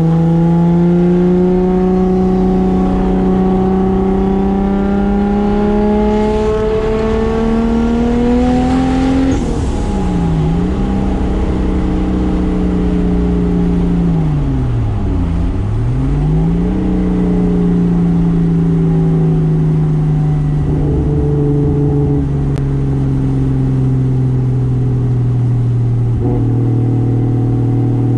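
Single-turbo 2JZ straight-six in a Toyota Soarer pulling hard, its pitch rising steadily for about nine seconds. It then drops suddenly with a short hiss, dips and picks back up twice, and winds slowly down.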